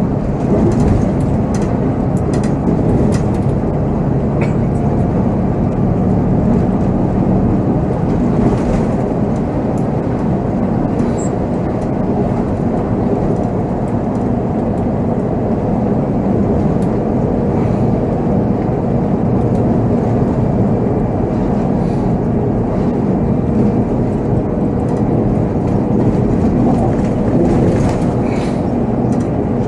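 Volvo B7R coach's diesel engine running under way, a steady low drone with a faint held tone, heard from the driver's seat with road noise and a few light rattles.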